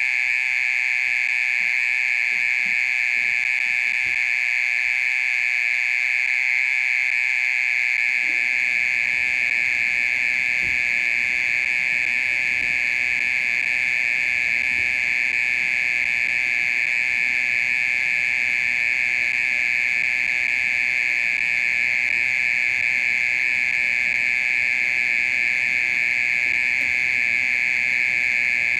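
Japanese mole cricket singing: one steady, unbroken high-pitched buzzing trill that runs on without a pause.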